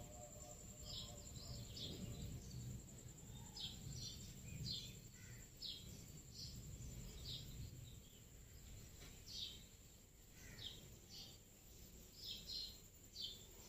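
Faint birds chirping outdoors: short, high chirps come irregularly, under a second apart, over a low background rumble and a thin steady high tone.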